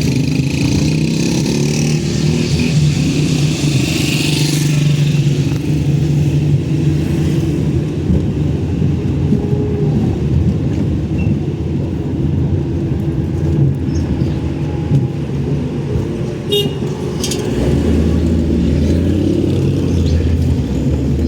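Motor vehicle engine running steadily with road noise. About eighteen seconds in, the engine note drops lower and grows heavier.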